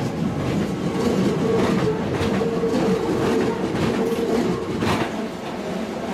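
Toei 5300 series electric train passing close by, its wheels clicking over rail joints every half second or so, with a steady tone under the running noise.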